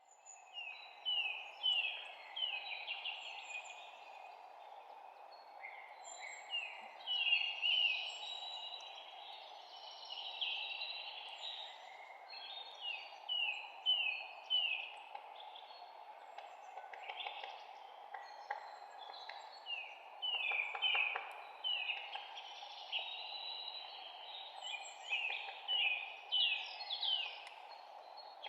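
Songbirds chirping, a stream of short, quickly falling notes repeated in clusters, over a steady background noise.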